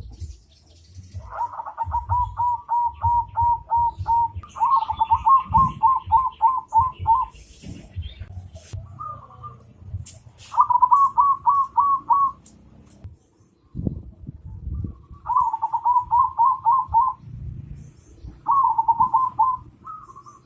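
A bird calling in five runs of quick repeated notes, about three a second, with short pauses between the runs. A low, uneven rumble with thuds runs underneath.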